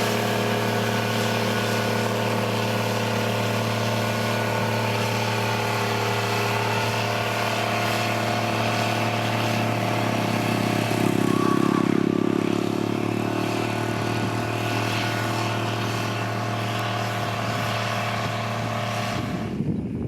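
Heavy construction machine's diesel engine running steadily with a low even drone, swelling louder for a couple of seconds about halfway through; the sound cuts off abruptly near the end.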